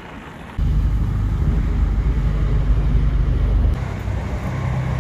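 Low, steady engine rumble of street traffic. It starts abruptly about half a second in and drops back sharply just before the four-second mark.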